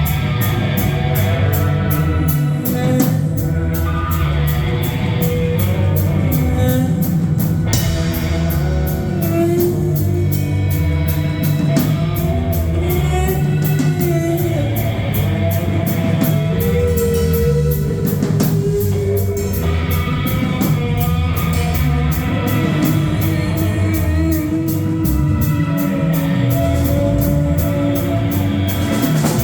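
Live rock band playing loudly and continuously: electric guitar, bass and drum kit, with long held and bending melodic notes over a steady low end.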